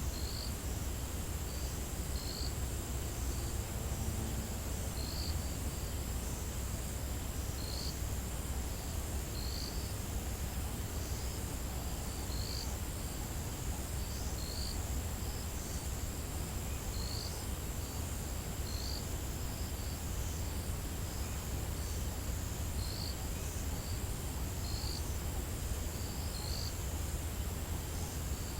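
Insects trilling in the African bush: one continuous high-pitched trill, with short chirps repeating every one to two seconds, over a steady low rumble.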